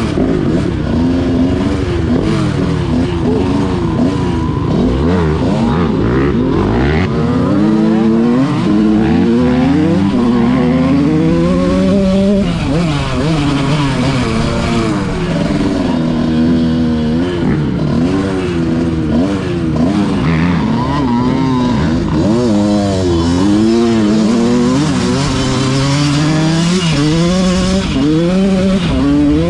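Dirt bike engine being ridden hard on a trail. The pitch climbs and drops again and again as the throttle opens and closes and the bike shifts through the gears.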